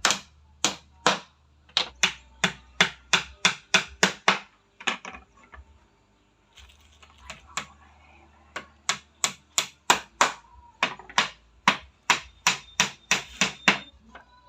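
Hammer striking in quick repeated blows, about three to four a second, in two runs with a pause of a few seconds between.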